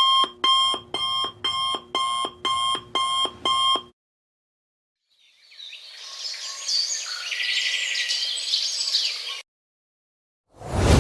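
Electronic alarm beeping in short, rapid pulses, about two a second, stopping about four seconds in. After a pause, a hissing sound with chirps swells up and cuts off suddenly, and a loud boom-like hit starts near the end.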